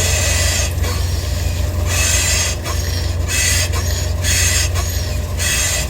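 Front suspension of a 2015 Ford Edge squeaking loudly in five harsh bursts, about one a second, over a steady low hum. The squeak comes from the lower control arm, where the lower ball joint has play in it.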